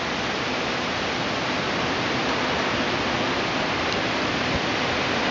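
Steady rushing noise of storm wind and rain from a hurricane's outer feeder band, with no let-up.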